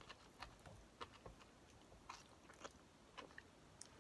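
Faint, close-up chewing of homemade pancake with kimchi: soft irregular mouth clicks and smacks, about seven in four seconds.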